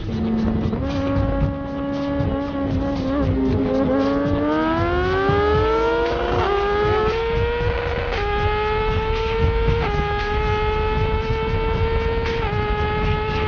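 Superbike engine at high revs, its pitch climbing smoothly for a couple of seconds, then holding high with several sudden small shifts in pitch.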